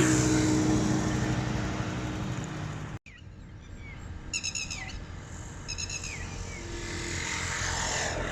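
Diesel locomotive engine running loud and steady, cut off abruptly about three seconds in. A quieter low rumble follows and slowly grows louder, with birds chirping in two short bursts.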